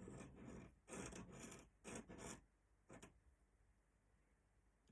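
Faint scratching of a pen nib drawing on paper: a few short strokes in quick succession in the first three seconds.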